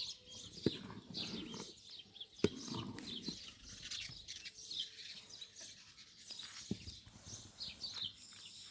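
Small birds chirping busily and repeatedly, with three sharp knocks standing out now and then.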